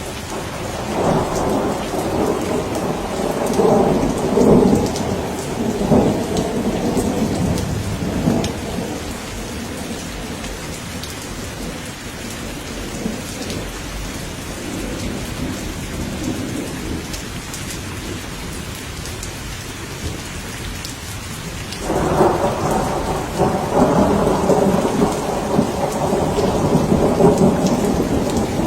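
Steady rain falling, with two long rolls of thunder: the first rumbles over the opening several seconds and dies away by about nine seconds in, the second breaks in suddenly about three quarters of the way through and keeps rolling.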